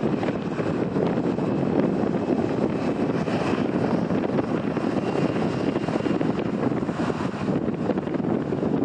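Jet airliner engines running with a steady rumble, the sound of an aircraft on or near the runway.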